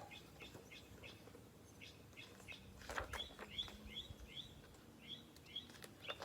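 Faint chirping of small birds: a string of short, high chirps that comes quicker and more regular from about halfway through.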